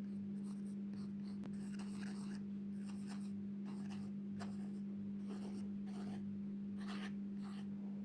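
Drawing strokes scratching across paper, about a dozen short strokes at an uneven pace, over a steady low hum.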